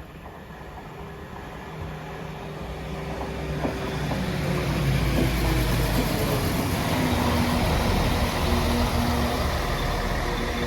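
A train approaching along the line, its sound growing louder over about five seconds and then holding as a steady running noise with faint whining tones.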